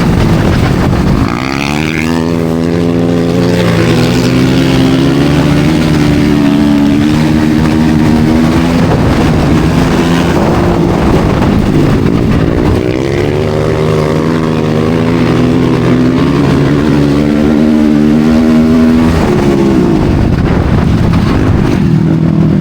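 Racing motorcycle engines on a studded ice-racing course, running hard: they climb in pitch about a second in, hold at high revs, ease off, then climb and hold again before backing off near the end.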